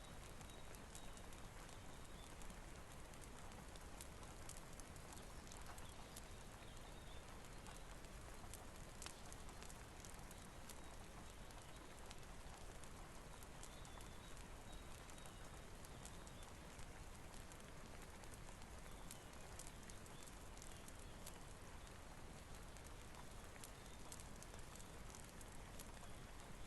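Faint steady rain with a crackling fireplace: an even hiss of rainfall under scattered sharp pops and snaps from the burning wood.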